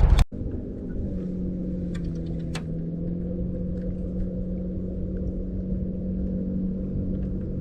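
Boat motor running steadily at a constant pitch over a low rumble.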